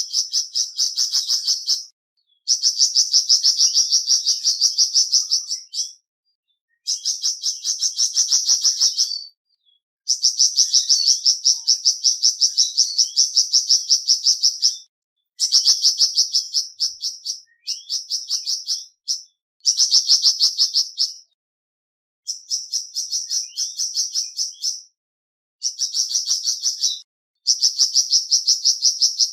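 Flamboyan bird singing: bouts of a rapid run of sharp, high chirping notes, each bout a few seconds long and broken off by short pauses.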